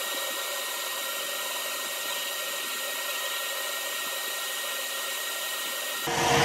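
Metal lathe running steadily under a light finishing cut, an even whirr with a faint steady whine from the motor and gearing.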